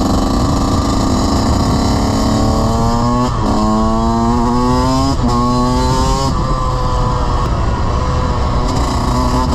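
Off-road vehicle engine accelerating hard, its pitch climbing and then dropping sharply twice as it shifts up through the gears, before settling into a rougher, steadier run.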